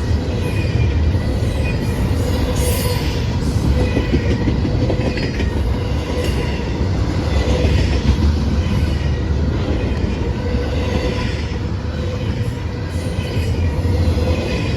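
Train cars rolling past on the rails: a steady heavy rumble with faint high squealing from the wheels.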